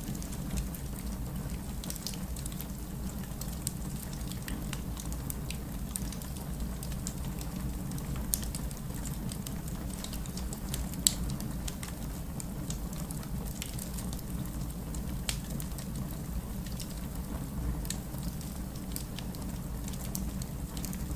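Wood fire in a fireplace crackling: irregular sharp pops and snaps over a steady low rumble of the flames, with two louder pops about 8 and 11 seconds in.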